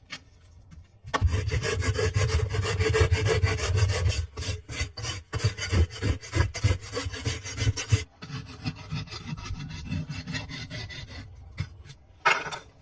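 Hoof rasp filing a horse's hoof in quick back-and-forth scraping strokes, heavy from about a second in, then lighter strokes after about eight seconds.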